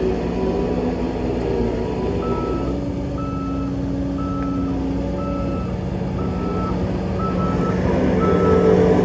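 Back-up alarm on a heavy diesel machine beeping about once a second, starting about two seconds in, over the steady running of a diesel engine.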